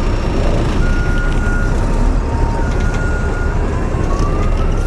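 Truck engine running with a steady low rumble, over which an electronic alarm sounds long, steady notes alternating between two pitches. Near the end it changes to a rising wail.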